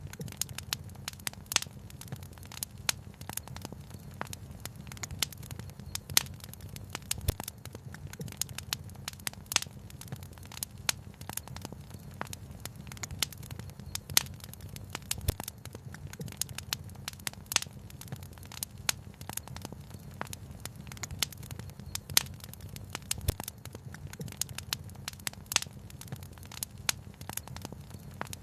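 Wood fire crackling in a fireplace, with many irregular sharp pops and snaps, a few much louder than the rest, over a steady low rumble.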